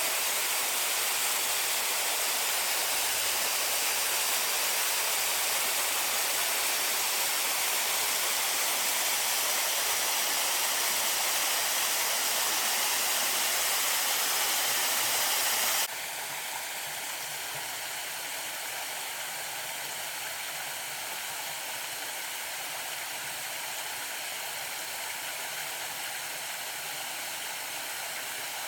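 Small garden waterfall splashing and running steadily. A little over halfway through it changes abruptly to a quieter, softer water sound with less hiss.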